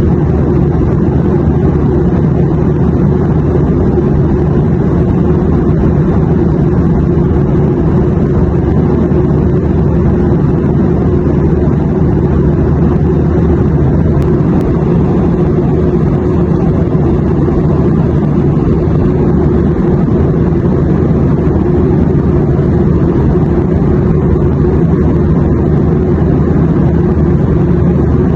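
Airplane noise: a loud, steady low rumble that holds the same pitch and level throughout, with no changes or separate events.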